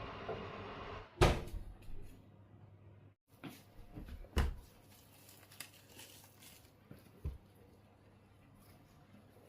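A steady hum cuts off about a second in with a sharp knock, followed by a few scattered knocks and one heavier thump: kitchen handling sounds such as a cupboard door shutting and things being set down.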